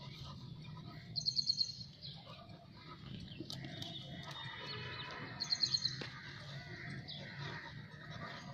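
A bird calling twice, each call a quick run of about six sharp high notes lasting half a second, some four seconds apart, over fainter chirping of other birds.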